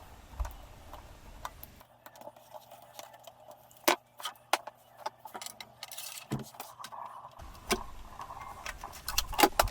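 Scattered light clicks and taps of hands working on a tracksaw's guide rails, with a quick run of clicks near the end.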